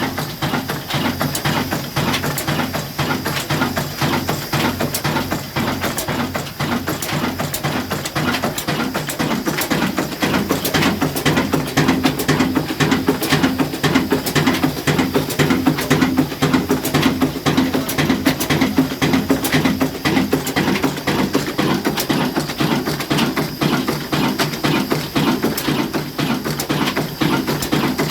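Slow-speed 'kala engine' single-cylinder diesel (22 hp, 300 rpm) running a wood-cutting saw machine, a steady run of rapid, even knocks. A steady humming tone rises about ten seconds in and holds for about ten seconds before fading.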